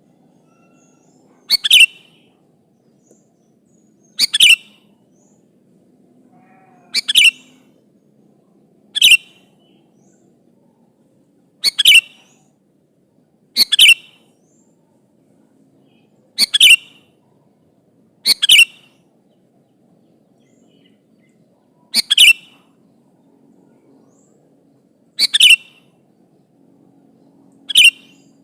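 Sooty-headed bulbul (kutilang) giving short, sharp calls, each a quick double note, repeated about every two to three seconds. It is a gacor bulbul calling out to a rival.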